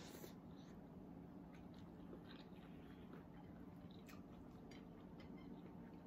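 Faint chewing with small wet mouth clicks, a person eating food by hand, over a steady low hum.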